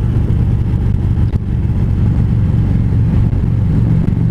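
Harley-Davidson V-twin motorcycle engine running at a steady cruising speed, heard from the rider's seat.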